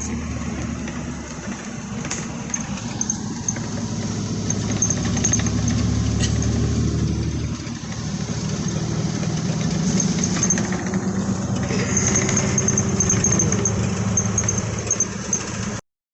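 Bus engine and road noise heard from inside the passenger cabin, a steady low drone that swells louder twice. The sound cuts off suddenly near the end.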